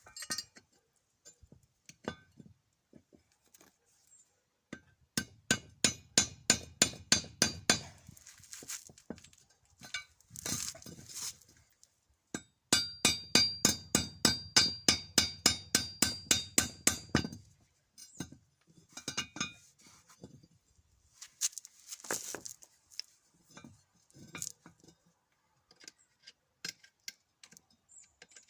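Quick light hammer taps on metal, ringing clinks about five a second in two long runs, with scattered single knocks between: driving the pinion gear off the shaft of an RS550 drill motor.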